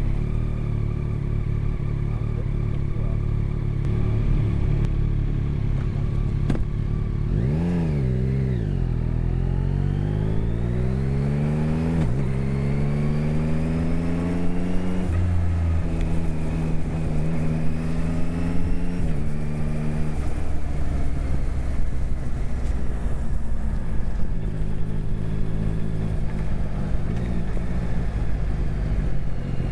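Motorcycle engine under way: running steadily, then a quick throttle blip about a quarter of the way in. It then revs up with a rising pitch through gear changes, holds steady, and drops back to a lower steady pace for the last third.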